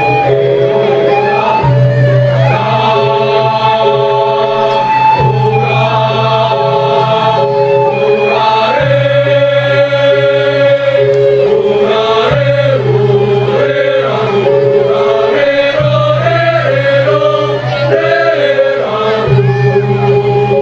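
Balinese gamelan ensemble playing a tabuh kreasi piece: held melodic notes stepping in pitch over a steady low tone.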